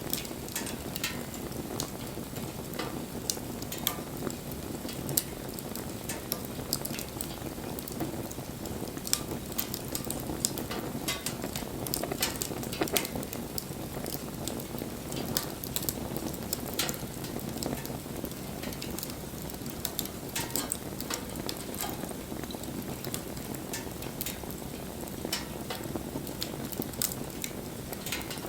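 Wood bonfire burning, with irregular crackles and pops over a steady low rush of flame.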